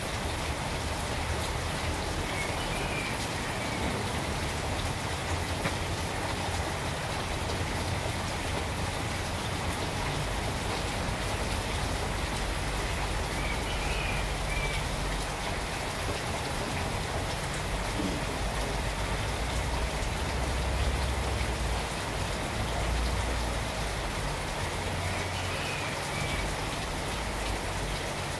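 Steady rain falling on trees and garden plants, an even hiss at an unchanging level.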